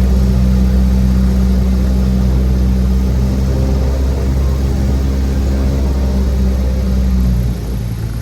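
Cessna 172's piston engine and propeller droning steadily, heard from inside the cabin, with a low, even hum. About seven and a half seconds in the drone drops a little in level and changes tone.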